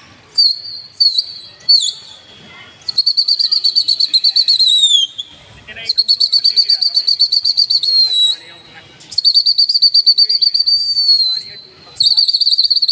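A pigeon keeper's whistle blown to the flying flock: loud, high, trilling blasts. Three short ones come first, then four long ones of about two seconds each, every blast sliding down in pitch as it ends.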